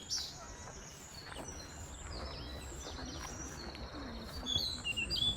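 Several wild birds chirping and whistling in short, sweeping high calls, one after another, over a steady low rumble.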